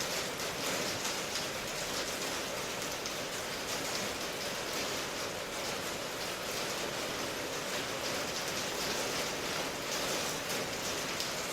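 Steady rain falling, a constant hiss with fine patter of drops and no change in strength.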